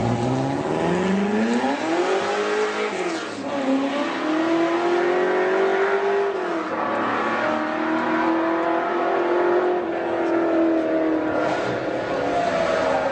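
Supercar engine accelerating hard through the gears: its note climbs, drops at a gearshift about three seconds in, climbs again, then drops once more and holds a steadier note.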